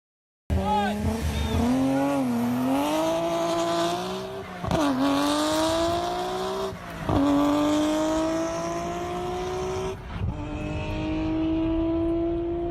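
An engine accelerating, its pitch climbing steadily and dropping sharply three times, as at gear changes.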